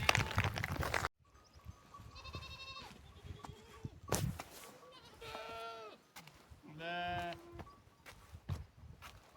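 Sheep bleating: two wavering bleats in the second half, the second louder, with a shorter, higher call a couple of seconds in. Before them a loud rush of noise cuts off suddenly about a second in.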